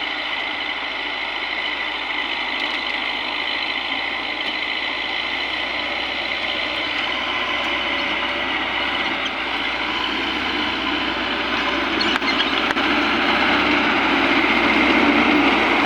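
A heavy vehicle's engine running steadily, growing gradually louder toward the end.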